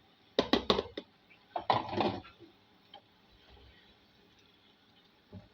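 Kitchen utensil knocking against a cooking pot: three quick sharp knocks about half a second in, then a short clatter about two seconds in.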